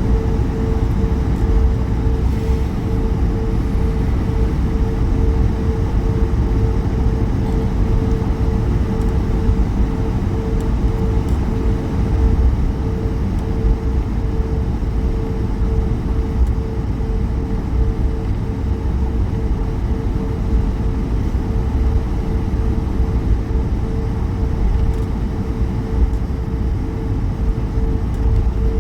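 Steady cabin noise of an Airbus A220 with its Pratt & Whitney geared turbofan engines running: a constant low rumble with a steady hum on one pitch above it, holding level throughout.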